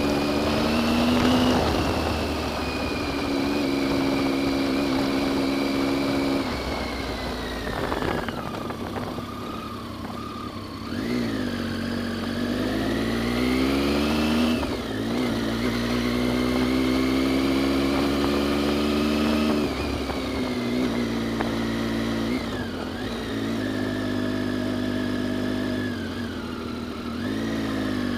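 Adventure motorcycle's engine pulling along a dirt track, its revs rising and falling with the throttle. The engine eases off for a few seconds about eight seconds in, then picks up again.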